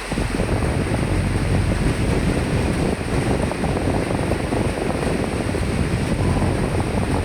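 Wind gust over steady rain: a low, gusty rush of wind comes in suddenly on top of the even rain hiss and drops away again near the end.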